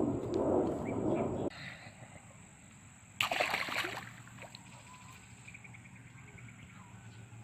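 Outdoor riverbank ambience with faint insects chirping: a steady high buzz and a short run of rapid chirps. A stretch of noise cuts off about a second and a half in, and a brief, louder burst of noise comes about three seconds in.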